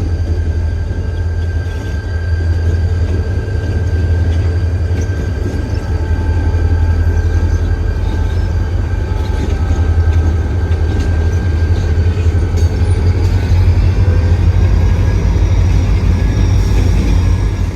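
Diesel locomotives at work switching a train, their engines running with a deep steady drone. A thin high-pitched whine sits steadily over the engines.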